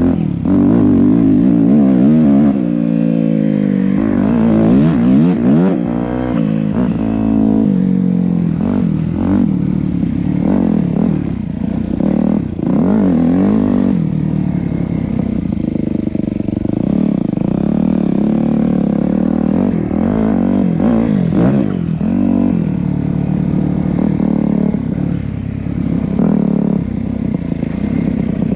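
Yamaha YZ250F's single-cylinder four-stroke engine revving up and falling back over and over as the bike is ridden, with a few sharp knocks along the way.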